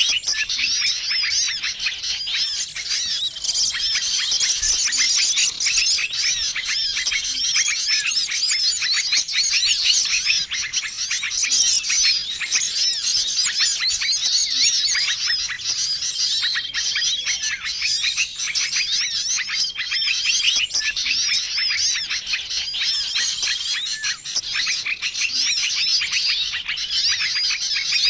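Dense, noisy chorus of many small songbirds chirping and trilling at once: a bird-lure (suara pikat) recording used to call in small wild birds. A short level whistled note recurs every few seconds over the chatter.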